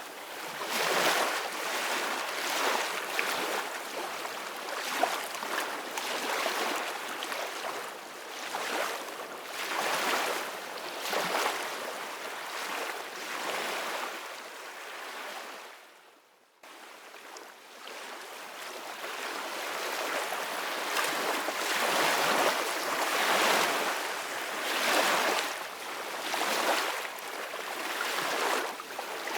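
Ocean surf: waves washing and breaking in repeated surges, each swelling and ebbing over a second or two. About halfway through the sound fades out briefly and cuts back in suddenly.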